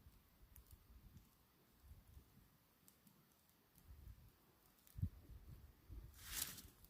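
Faint campfire crackling: sparse small clicks and pops, with a low thump about five seconds in and a brief louder rush of noise near the end.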